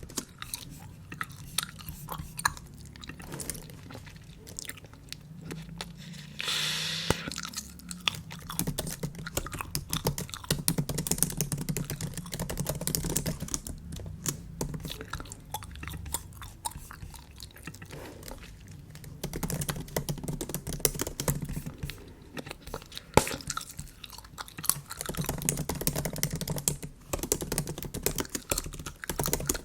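Bubble gum chewed close to the microphone: a steady run of wet, sticky clicks and smacks, with a short breathy hiss about seven seconds in.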